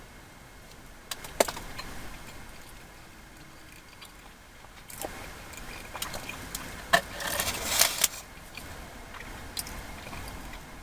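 Food packaging being handled: a couple of sharp clicks, then crinkly crackling and rustling from about halfway through, loudest near the three-quarter mark.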